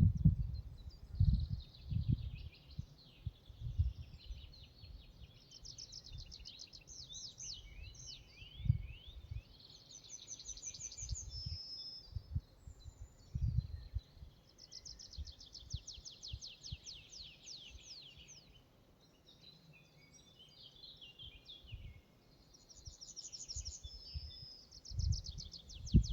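Forest songbirds singing, with several fast, ringing trills repeated every few seconds and scattered chirps. Irregular low thumps and rumbles run underneath and are loudest at the start and near the end.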